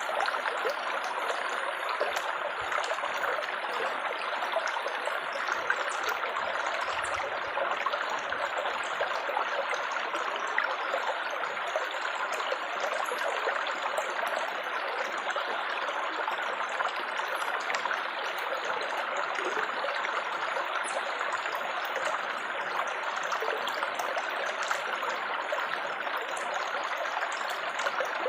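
Water trickling and gurgling steadily over stones in a small stream, with no breaks.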